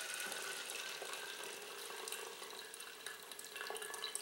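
Brewed coffee running and trickling into a cup as hot water is pushed by hand through a Presto MyJo portable single-cup coffee maker, with small clicks from the pusher.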